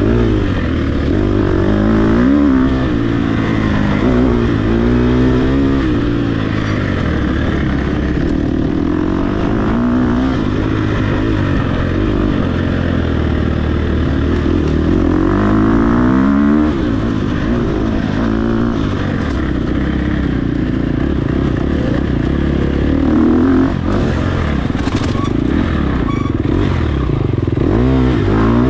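Dirt bike engine running hard, its pitch climbing and dropping again and again as the rider accelerates, shifts and backs off. A few sharp knocks come about two-thirds of the way through.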